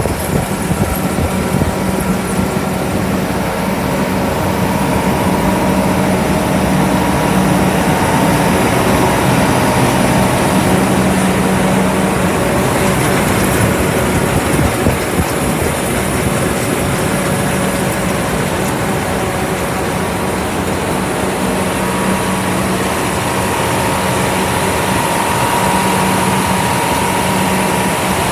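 John Deere S670 combine running at a steady speed: its diesel engine hums steadily, with a higher steady whine over a broad mechanical noise.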